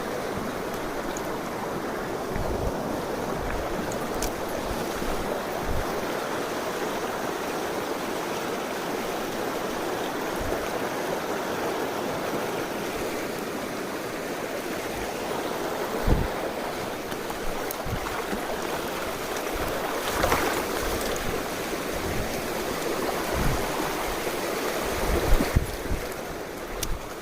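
A mountain stream rushing steadily over rocks, with a few short low thumps, clustered near the end.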